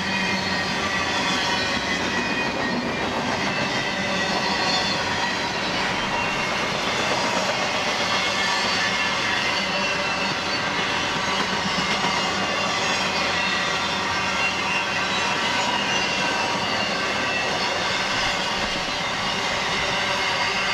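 A BNSF freight train rolling past close by: a steady rumble of wheels on rail with a high metallic ringing from the wheels.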